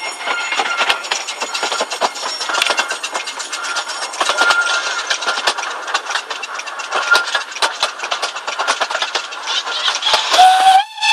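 Miniature railway train running, heard from inside a passenger carriage: a steady, dense clatter of wheels and coachwork rattling over the track, with short high squeals now and then as the train goes round a curve.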